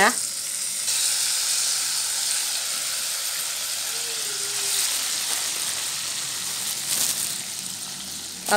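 Ground spice paste with sugar and tamarind water sizzling steadily as it fries in hot oil in a wok, easing off slightly near the end.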